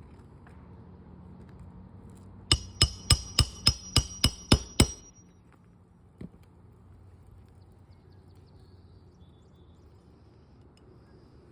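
A hammer striking metal nine times in a quick run, about four blows a second, each with a high metallic ring, during roof shingle repair work. One fainter knock follows about a second later.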